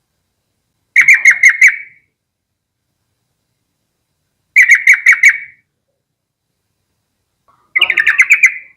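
Yellow-vented bulbul singing: three short phrases a few seconds apart, each a quick run of about five notes.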